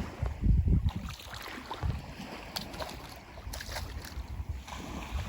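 Wind buffeting the microphone in low rumbling gusts, strongest about half a second in, with a few faint clicks later on.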